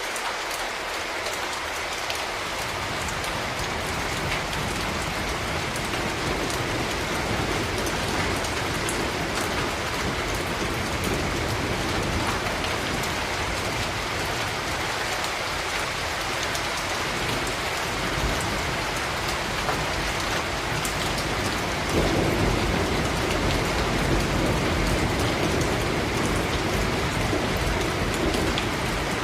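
Steady rain falling, with a low rumble of thunder that builds and swells about three quarters of the way through.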